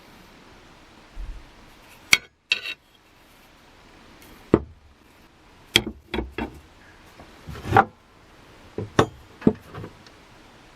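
A series of about a dozen sharp knocks and clinks at irregular intervals, some ringing briefly, like a hard tool being handled or struck against wood and metal.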